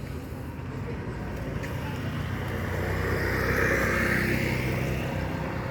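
A motor vehicle passing by with its engine running: it grows louder to a peak a little past the middle, then fades.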